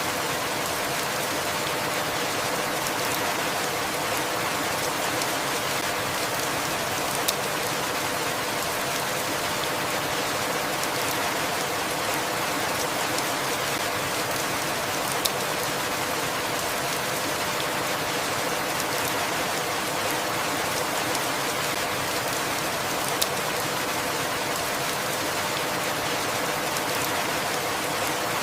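Steady, even rainfall with no change in strength, broken by three short sharp ticks about eight seconds apart.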